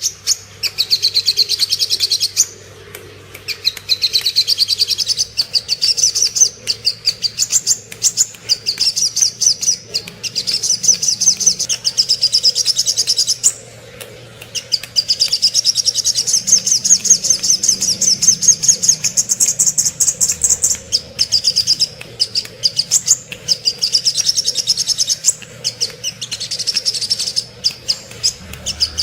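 Sogok ontong song from a masteran tutor recording: fast, high-pitched chattering trills of many notes a second, in long phrases broken by short pauses.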